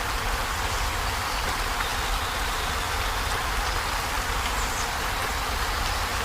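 Heavy rain falling on a corrugated zinc roof: a steady, dense patter with a low rumble underneath.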